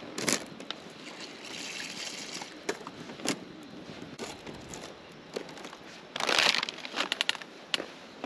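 Rustling, crinkling and sharp clicks of things being handled, with a louder rustle about six seconds in.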